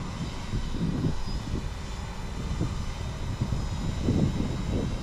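UpAirOne quadcopter drone flying, its motors and propellers making a steady hum with thin high whining tones, over an uneven low rumble.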